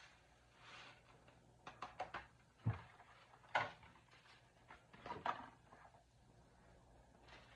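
Faint kitchen handling sounds: a handful of light knocks and rustles spread through, with quiet gaps between them.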